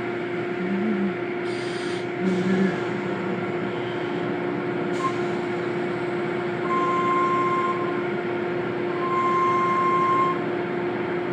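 Steady machine hum of car wash equipment running, with two long, higher steady tones of about a second each, roughly seven and nine seconds in.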